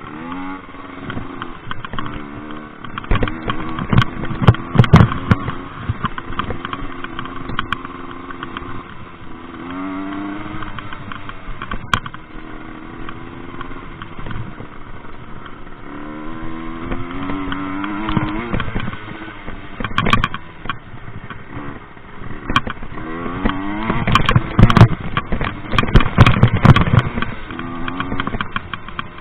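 Rieju MRT two-stroke moped engine revving up and dropping back repeatedly while ridden off-road, with heavy knocks and clatter from the bike on rough ground, loudest a few seconds in and again near the end.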